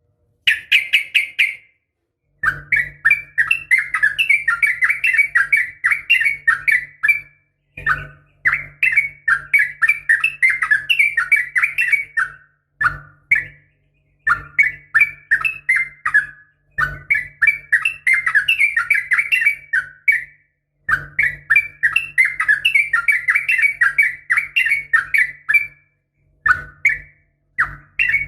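Yellow-vented bulbul (trucukan) giving its rapid 'ropel' fighting song: phrases of quick, chattering notes, each a few seconds long, with short pauses between them. A faint low hum runs under each phrase.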